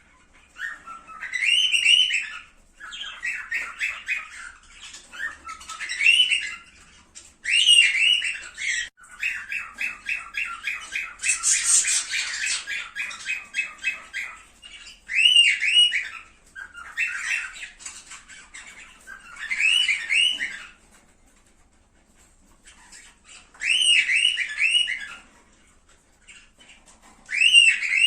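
Cockatiels calling in a string of short phrases: rapid runs of repeated chattering notes and rising whistled calls. There are two brief pauses in the second half.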